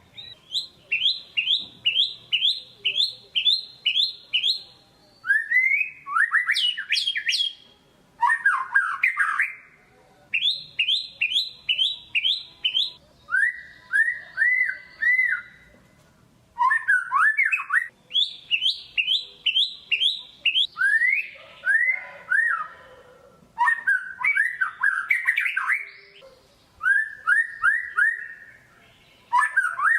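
White-rumped shama (murai batu) singing energetically: bouts of rapid, sharp, repeated whistled notes, each phrase a second or two long, with short pauses between phrases and the note pattern changing from phrase to phrase.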